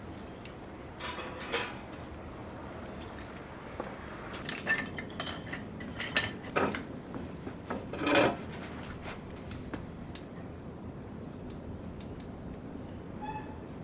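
Metal objects clinking and clattering against each other in a handful of separate knocks, some ringing briefly, like pots, utensils or grill parts being handled.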